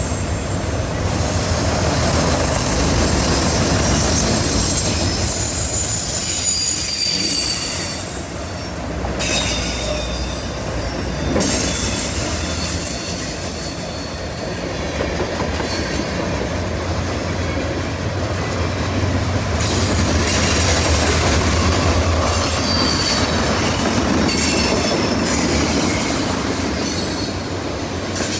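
Freight cars (autoracks, then tank cars) rolling past on a curve: a steady rumble and clatter of steel wheels on rail, with high-pitched wheel flange squeal coming and going as the wheels grind through the curve.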